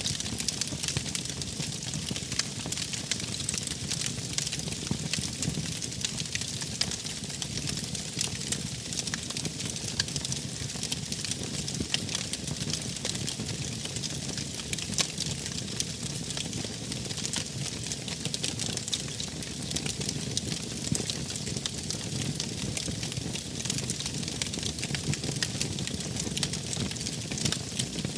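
Wood fire crackling steadily, with many small sharp pops over a low rumble.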